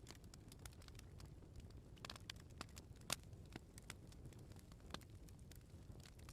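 Bonfire of burning firewood crackling, with irregular sharp pops over a low steady rumble of flames; the loudest pop comes about three seconds in.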